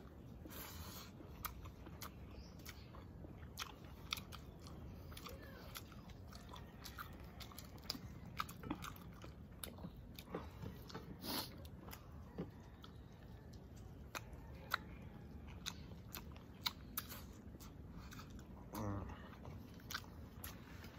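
A person eating close to the microphone: chewing and biting, with many small sharp clicks and taps scattered throughout.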